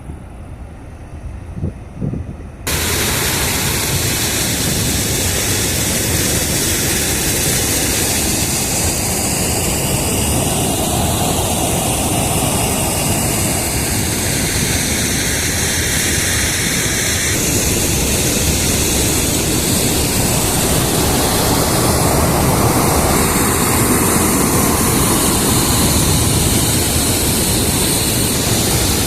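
Water pouring over an overflowing reservoir spillway: a loud, steady rush of water that cuts in abruptly a little over two seconds in, after a few quieter seconds with some low thumps.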